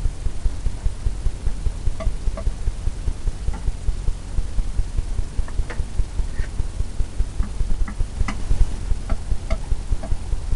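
Rhythmic low thumping, about four beats a second, with scattered light ticks: a painting tool working oil paint on the canvas.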